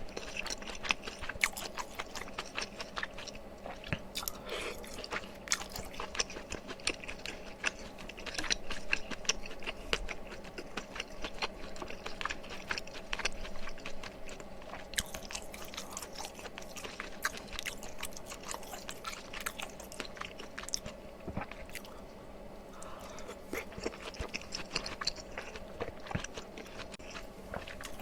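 A person chewing food up close to the microphone: steady wet chewing and biting with many small mouth clicks and occasional crunchier bites.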